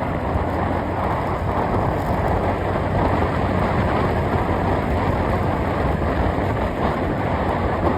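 Steady running noise of a moving road vehicle: a low engine hum under even road and wind noise.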